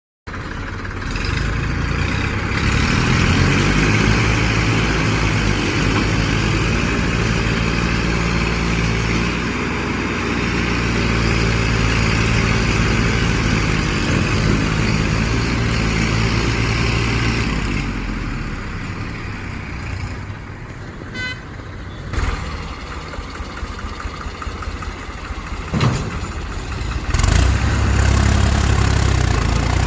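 Motor vehicle engine running steadily under broad road or mechanical noise. There is a brief dropout right at the start, and the sound shifts about two-thirds of the way through and again near the end.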